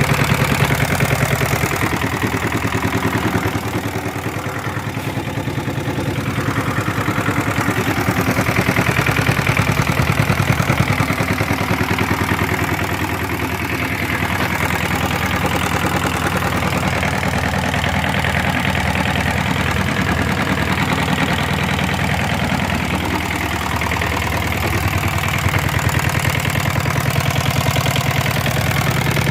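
Hatz diesel engine running steadily on test, a fast, even chugging of firing pulses with a light clatter.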